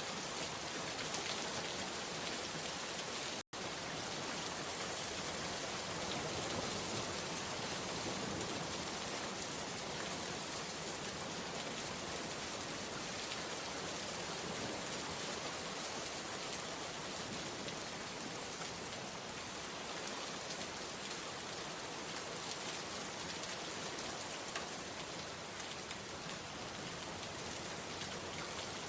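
Steady rain falling, an even hiss of many drops, broken by a split-second dropout about three and a half seconds in.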